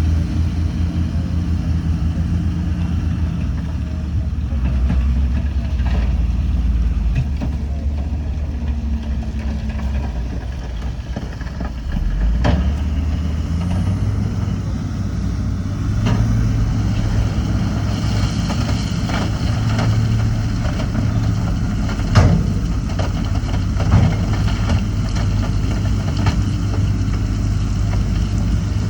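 Heavy diesel engine of earthmoving machinery running under load. Its note steps up about twelve seconds in, and there are several sharp knocks along the way.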